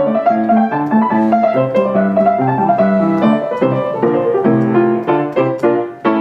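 Piano music: a quick run of notes with a bass line, pausing briefly near the end before starting up again.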